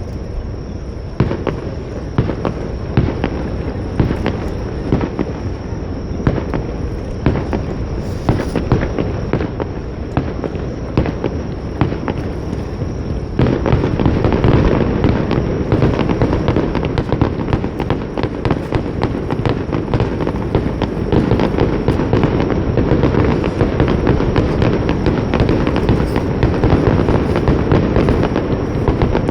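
Fireworks bursting in a steady string of sharp bangs over a low rumble. About thirteen seconds in, the bursts come thicker and louder, running together.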